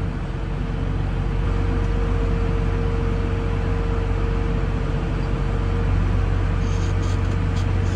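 Tractor engine running steadily while pulling and unloading a feed wagon into the cattle bunks, with a constant high whine over the engine hum.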